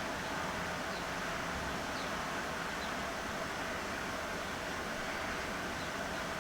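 Steady background hiss of room noise, even throughout, with a few faint light ticks now and then.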